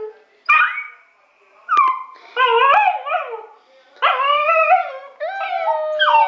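Dog howling in a run of about five separate calls: two short yips first, then three longer, wavering howls with brief gaps between them.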